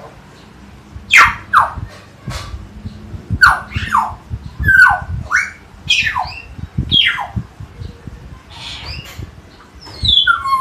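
Common hill myna (beo) calling loudly in a rapid series of about a dozen sharp whistles and squawks, each sweeping quickly down in pitch.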